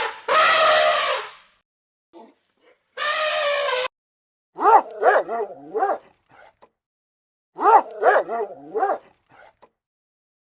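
Dog yipping and whining: two loud, rough calls at the start, a longer held call about three seconds in, then two quick runs of short yips that rise and fall in pitch.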